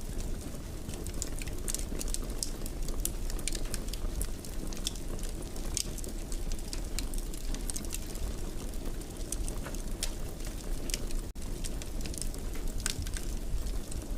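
Wood fire in a fireplace crackling and popping irregularly over a steady low rumble of the flames. The sound cuts out for an instant about eleven seconds in.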